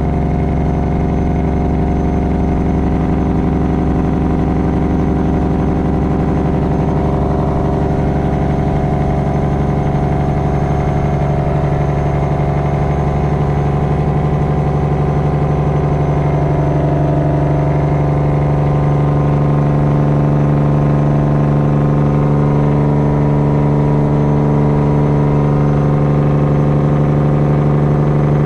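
Straight-piped Detroit diesel engine of a semi truck running steadily on the road, a constant drone. Its pitch shifts slightly in the middle, and it gets a little louder about two-thirds of the way through.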